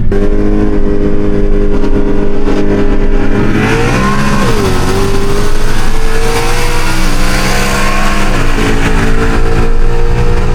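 Shelby GT500's supercharged V8 running at a steady cruise, heard from inside the cabin. About three and a half seconds in the pitch rises, then it dips and settles. Near the end it steps down to a lower steady note.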